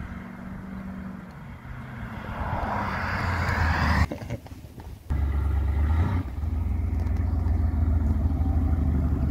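Chevrolet Camaro IROC-Z's V8 growing louder as the car approaches and passes close by about four seconds in. The sound drops away for about a second, then the V8 runs steadily, low and close, as the car slows.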